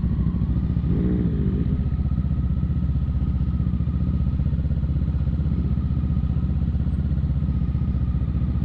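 Kawasaki Ninja 650's parallel-twin engine running steadily at constant revs, heard from on the bike.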